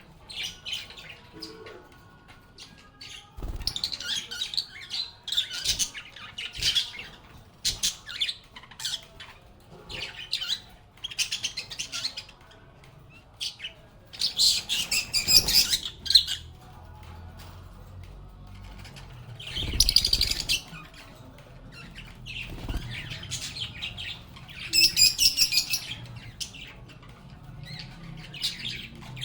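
Pet lovebirds chirping and squawking in quick, shrill bursts, with louder flurries of chatter about halfway through, around two-thirds of the way, and near the end.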